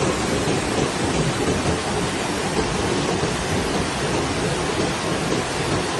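Vispa river in flood, rushing water making a loud, steady, churning roar.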